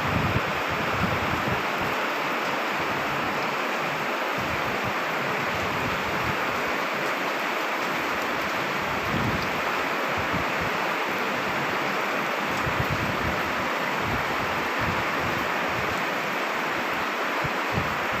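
Storm noise: a steady hiss of rain and wind, with a few brief low gusts buffeting the microphone.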